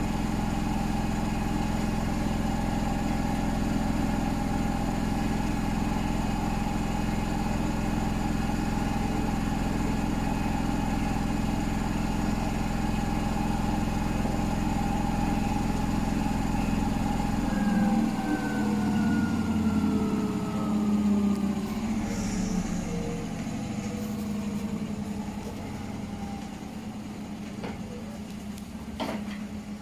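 Hotpoint WMFUG942 washing machine spinning at a steady speed with a motor whine. About two-thirds of the way through, the whine falls in pitch as the drum winds down, with uneven knocks and rattles. A few sharp clicks come near the end.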